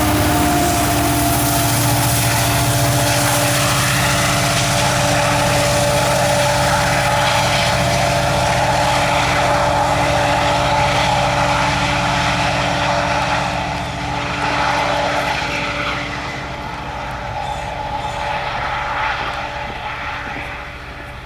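Rear distributed-power locomotive, an EMD SD70MAC, passing: its steady engine drone drops in pitch right at the start. The wheels of the loaded coal train run on the rails under it, and that noise fades away over the last several seconds as the end of the train goes by.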